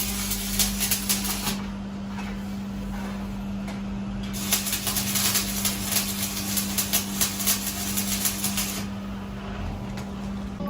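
Two spells of rapid scratching or scraping, the second longer, over a steady low machine hum.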